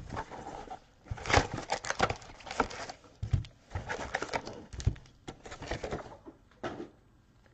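Trading cards and their packaging being handled: irregular rustling with light clicks and taps, stopping a little before the end.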